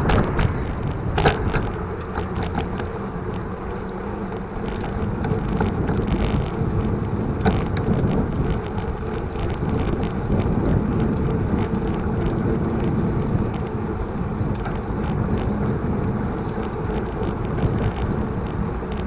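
Steady rushing road and wind noise from a bicycle being ridden along a road, with a couple of sharp knocks from bumps, one about a second in and one near the middle.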